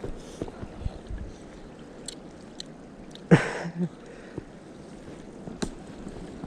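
Wind rumbling on the microphone, with scattered small clicks and rustles and one loud crunch about three seconds in, followed by a smaller one.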